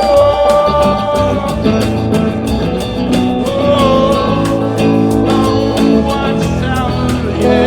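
Band music with guitar, with a sung or bent melody line holding and sliding between notes over a steady beat.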